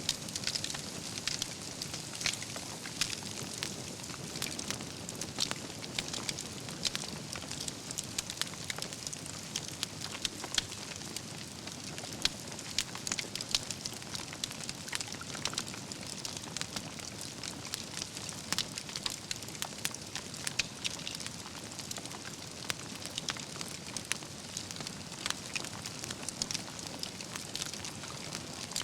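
Wood campfire burning steadily, with a constant low rush of flame and frequent sharp, irregular crackles and pops from the burning logs.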